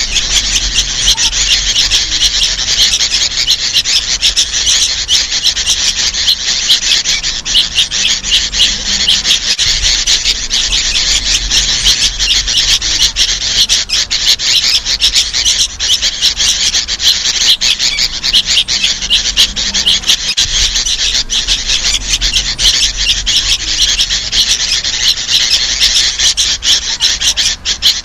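Sooty-headed bulbuls, adults and young birds together, calling in a dense, unbroken chatter of harsh, high-pitched calls without clear whistled notes.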